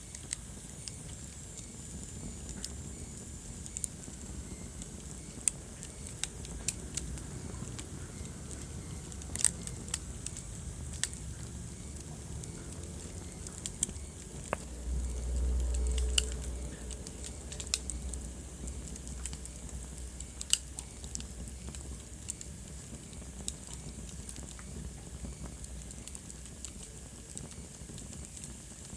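Wood fire crackling in a fireplace: irregular sharp pops and snaps over a low, steady rumble of flames. The rumble grows louder for about two seconds around the middle.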